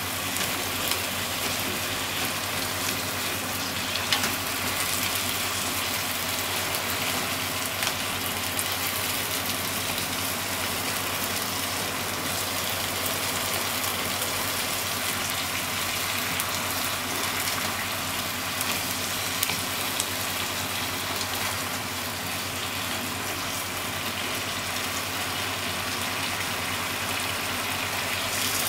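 Potatoes, shimeji mushrooms and minced meat sizzling steadily in a frying pan, with a few light clicks of wooden chopsticks stirring against the pan.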